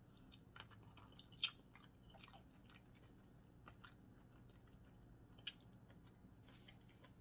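Faint chewing and small wet mouth clicks of a person eating, with a couple of sharper clicks about a second and a half in and again near five and a half seconds.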